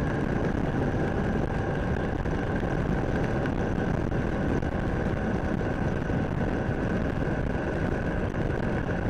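Motorcycle cruising at road speed: steady wind rush over the microphone mixed with engine and tyre noise.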